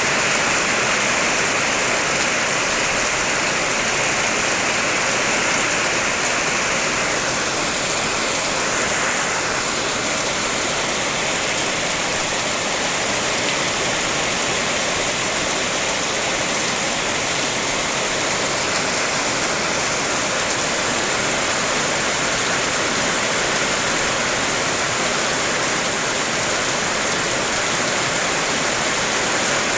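Heavy rain falling on a car's roof and body, heard from inside the car: a steady, dense hiss of drops.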